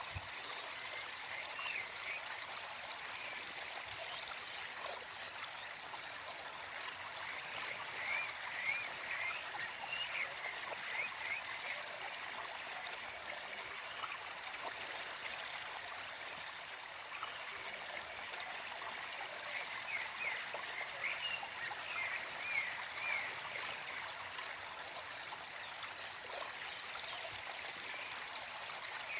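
Small forest stream running steadily. In the background a bird repeats a short, quick series of chirps several times.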